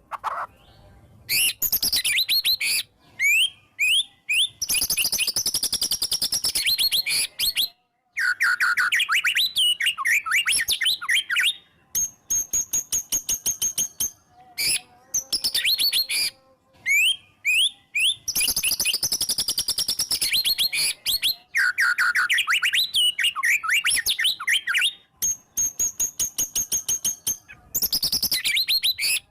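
White-rumped shama (murai batu) singing in full, agitated song. It gives loud phrases of rapid-fire repeated sharp notes, quick rising and falling whistles and a few long held high whistles, with short pauses between them.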